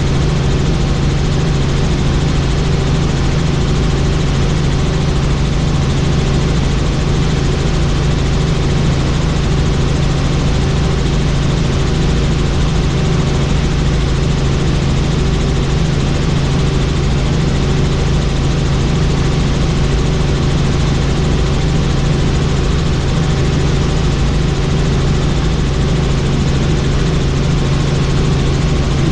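Helicopter in flight: a loud, steady drone of turbine engine and rotor with a constant low hum and an even rushing hiss.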